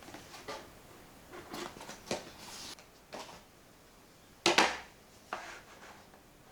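Scattered light clicks and knocks of small objects being handled, with one much louder clack about four and a half seconds in.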